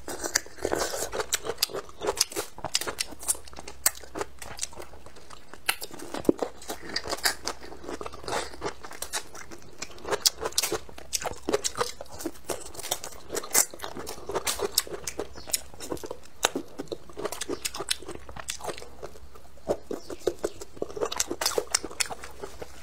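A person biting and chewing braised hand-peeled bamboo shoot: an irregular run of crunching clicks.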